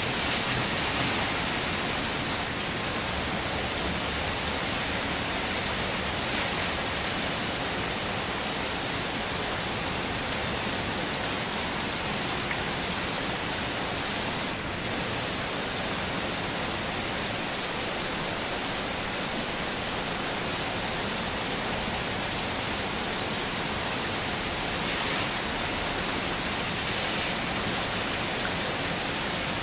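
Heavy rain falling steadily as an even hiss, briefly dipping three times about twelve seconds apart.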